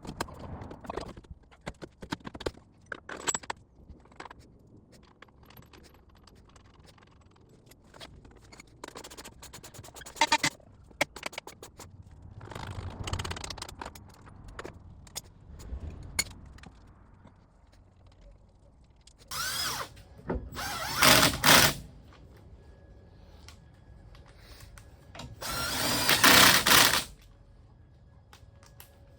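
Metal tools and parts clinking and knocking, then a power tool running in short bursts, twice in quick succession about twenty seconds in and once more near the end, driving in the bolts of the car's front suspension.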